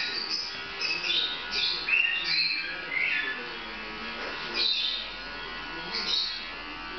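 A small bird chirping repeatedly in short, high gliding notes, over the faint steady hum of electric dog clippers.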